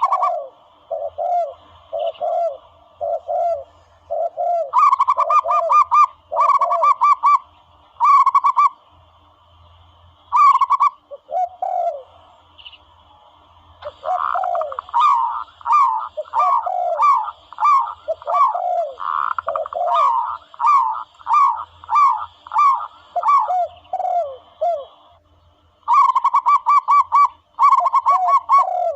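Recorded dove calls played as a hunting lure: runs of short falling coos alternate with quick pulsed, rattling phrases, repeated over and over with brief pauses.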